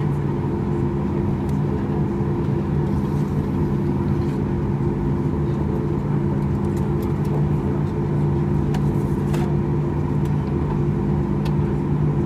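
Boeing 737-8 MAX cabin noise while taxiing: the CFM LEAP-1B engines at idle thrust give a steady hum with several held tones, with a few faint ticks from the cabin.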